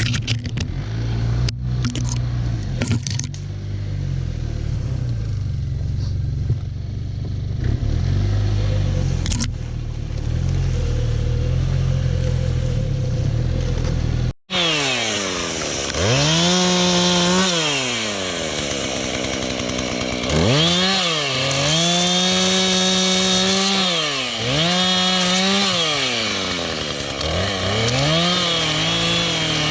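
Arctic Cat Norseman 3000 snowmobile's four-stroke engine under load while breaking trail in deep snow. For the first half it runs as a low, steady drone. After a sudden cut about halfway through, it revs up and down again and again.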